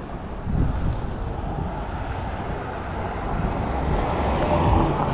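Wind buffeting the microphone over steady road noise while riding, growing louder toward the end.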